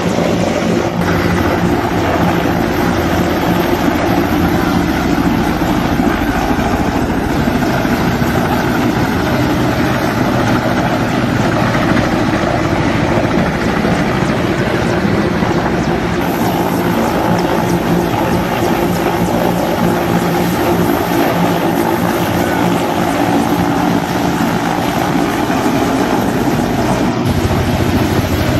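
Loud, steady engine drone with a constant low hum and no break or change in level.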